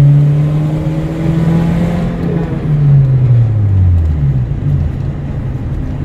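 Car engine heard from inside the cabin while driving: a steady engine note that drops in pitch about halfway through as the revs fall, then keeps running more roughly alongside road noise.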